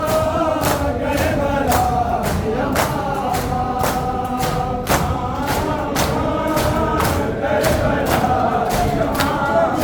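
A crowd of mourners chanting a Muharram noha in unison, with sharp, even strikes about two to three times a second, typical of matam (chest-beating) keeping time with the chant.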